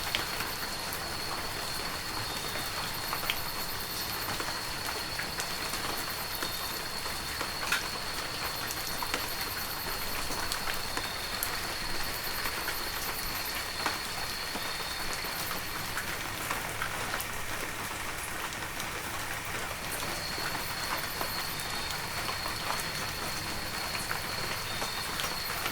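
Heavy rain falling steadily: an even hiss with many sharp, scattered drop hits. A steady high-pitched tone runs underneath and drops out for a few seconds past the middle.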